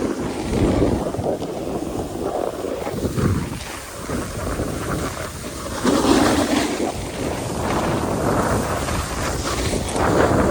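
Wind buffeting the microphone while a snowboard scrapes and carves over snow during a run, the noise swelling and easing in rough waves.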